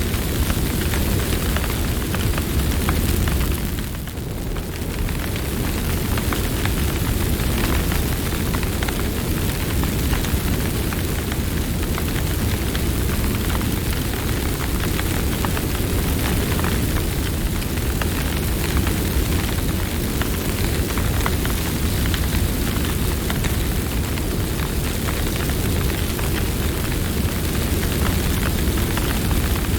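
Campfire burning: a steady low rumble of flames with frequent crackles and pops from the burning wood, briefly quieter about four seconds in.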